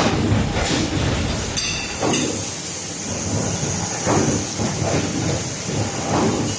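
Robotic laser welding equipment running: a continuous high hiss over irregular low rumbling surges of machine noise.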